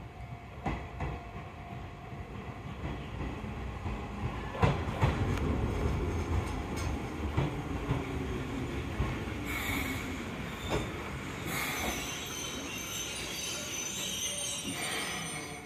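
Izuhakone Railway electric train pulling into the station and braking to a stop, growing louder as it nears, its wheels clicking over rail joints and its brakes squealing. Two short hisses of air come as it stops.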